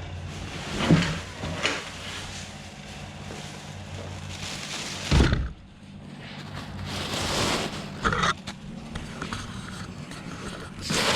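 Handling and unpacking a table saw: scraping and rustling of packing material with several knocks, the loudest a heavy thump about five seconds in.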